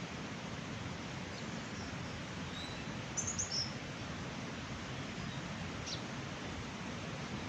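Small birds chirping in short high bursts, a quick run of chirps about three seconds in and another single chirp near six seconds, over a steady outdoor rushing noise.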